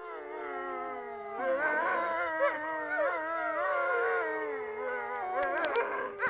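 Several dogs howling together, long wavering howls overlapping, with a few faint clicks near the end.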